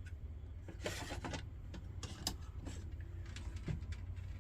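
Scattered light clicks and taps of small metal lantern parts being handled on a workbench, over a steady low hum.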